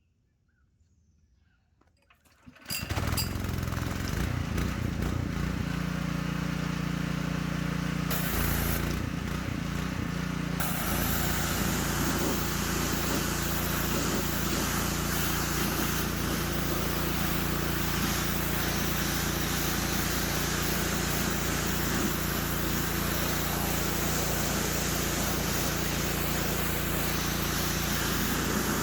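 Simpson PS3228-S pressure washer's Honda GX200 engine starting up suddenly about three seconds in and then running steadily; about ten seconds in a broad steady hiss joins the engine.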